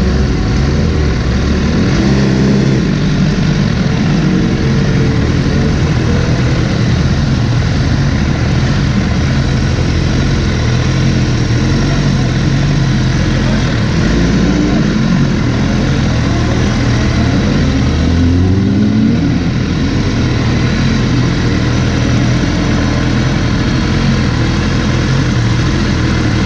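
Motorcycle engine running steadily over a constant rush of wind noise, with a brief rise in engine pitch about 18 seconds in.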